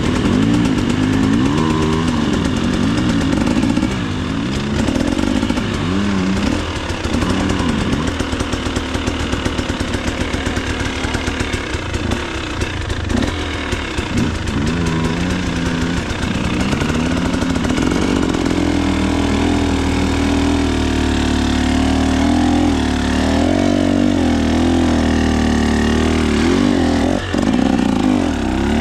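KTM 300 XC-W two-stroke dirt bike engine revving up and down again and again while being ridden over single track. About two-thirds of the way in it settles into a steadier, held drone.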